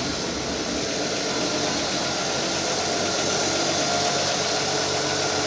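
1939 Chevrolet Master Deluxe's straight-six engine idling steadily.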